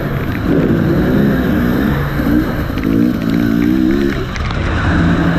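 Enduro motorcycle engine revving hard, its pitch rising and falling again and again as the throttle is worked, easing off a little after four seconds.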